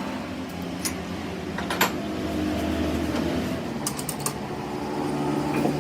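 A workshop machine's motor hums steadily, its pitch shifting slightly, while sharp metal clicks and taps sound a few times, most of them in a quick cluster about four seconds in.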